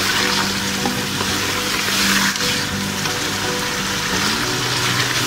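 Chicken pieces with masala sizzling steadily as they fry in hot oil in a pot, stirred with a spatula.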